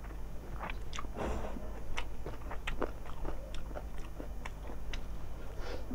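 Close-miked chewing of a mouthful of rice and chicken curry eaten by hand, with many small, sharp, wet mouth clicks.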